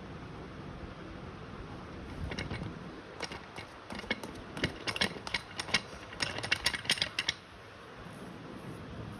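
A National ceiling fan's steady hum, with a run of irregular mechanical clicks and rattles lasting about five seconds in the middle.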